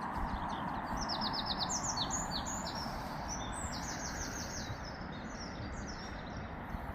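A small songbird singing outdoors in quick trills of short, high, falling notes that repeat in phrases, over a steady rushing background noise.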